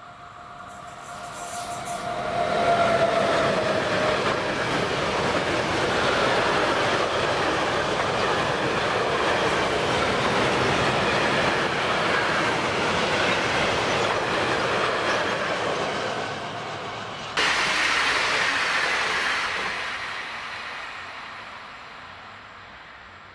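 ÖBB electric locomotive and a long train of covered sliding-wall freight wagons passing close by, with a steady rumble and clatter of wheels on the rails; a faint falling whine comes as the locomotive goes by in the first few seconds. About three quarters of the way through, the sound changes abruptly and then fades as a double-deck passenger train draws away.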